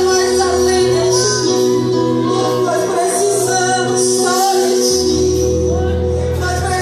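Live gospel worship music: voices singing over band accompaniment, with held chords and a bass line that drops out briefly in the middle.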